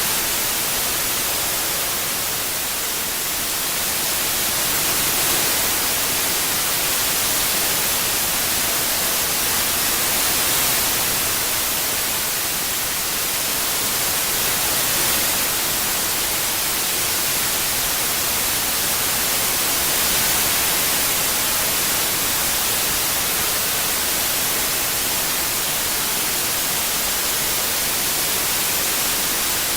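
Continuous synthesized white noise, a steady hiss brightest in the treble, its loudness swelling and easing gently every few seconds from the 8D surround processing.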